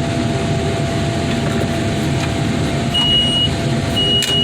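Heavy wheel loader's diesel engine running steadily, with its backup alarm sounding two high beeps about a second apart near the end as the machine reverses.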